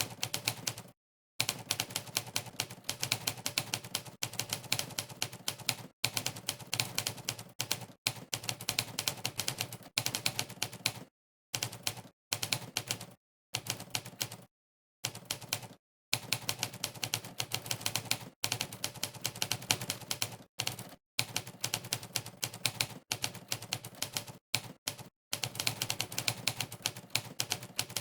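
Typewriter keystroke sound effect from a typing-test website, played once for each key pressed: rapid runs of clacking keystrokes, several per second, broken by short dead-silent pauses when the typing stops for a moment.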